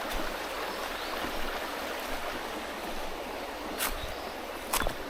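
Mountain stream flowing steadily, with two short sharp knocks near the end.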